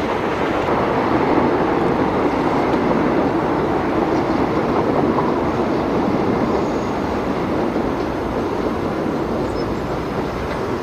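Passenger train running along the line, a steady rolling noise that swells slightly and then eases towards the end.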